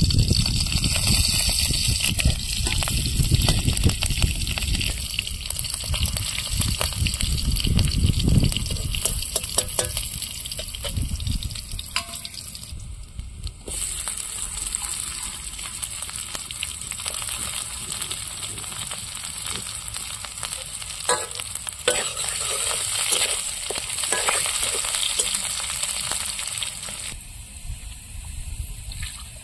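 Oil sizzling in an aluminium kadai as green chillies and sliced onions fry, with small clicks and scrapes of stirring. A low rumble sits under it for the first dozen seconds, and the sizzle drops away near the end.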